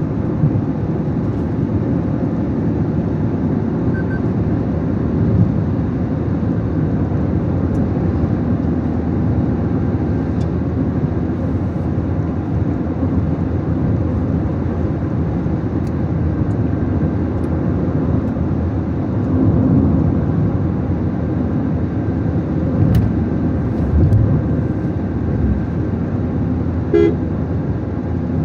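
Car driving, with steady low engine and road noise. A short horn toot comes near the end.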